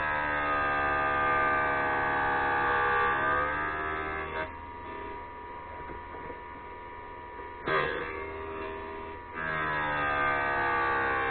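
HBM 20 mm drill grinder running with a steady motor whine while a drill bit is ground against its wheel in two passes. Each pass is a loud ringing grind that slowly shifts in pitch. Between the passes the motor runs alone, with a brief click about eight seconds in.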